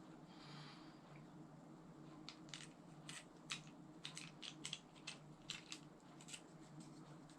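A dozen or so small, sharp clicks at an irregular pace over a few seconds, after a brief soft rustle near the start, over a faint steady low hum.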